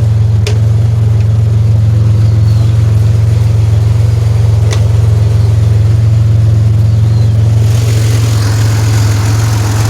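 2007 Pontiac Grand Prix GT's supercharged 3.8-litre V6 idling steadily, running good after a crank-no-start traced to a loose, corroded fuel pump relay. A rushing hiss joins the idle about eight seconds in.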